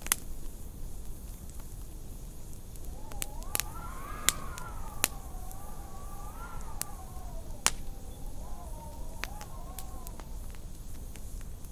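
Wood fire crackling with scattered sharp pops over a low rumble, while wind howls outside with a wavering whistle that rises and falls from about three seconds in until near the end.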